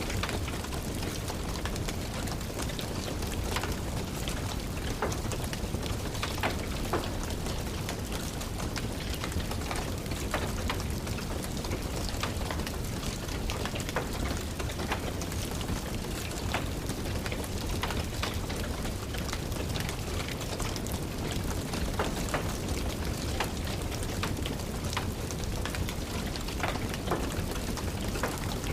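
Steady rain, mixed with the irregular crackles and pops of a wood fire burning in a fireplace.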